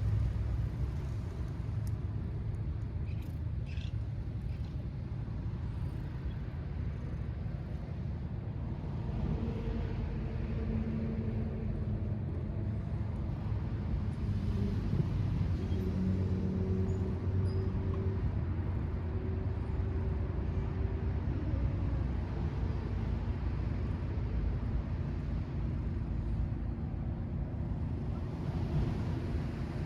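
Steady low rumble, like a motor vehicle running, with a faint droning hum from about ten to twenty seconds in.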